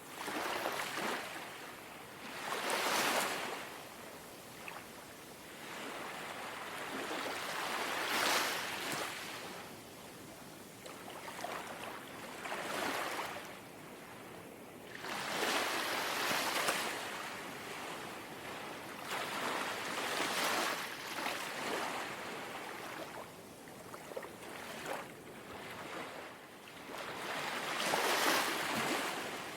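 Gentle sea waves lapping at the shore, each small wash swelling and fading every few seconds, with about six waves breaking.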